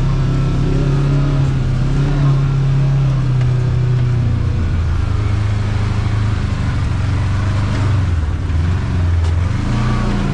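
Kawasaki KRX side-by-side's parallel-twin engine running under way, its pitch dropping about halfway through as it eases off, then rising and falling near the end.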